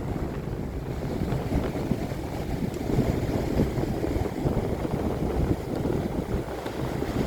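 Strong storm wind buffeting the microphone as a continuous low, gusting rumble, with stormy sea surf underneath.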